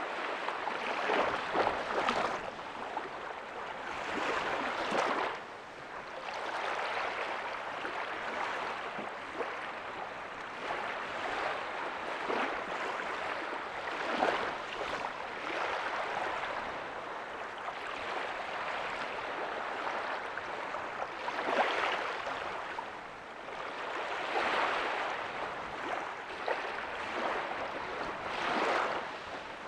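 Small ocean waves breaking on a beach: a continuous wash of surf with a soft crash swelling up every few seconds.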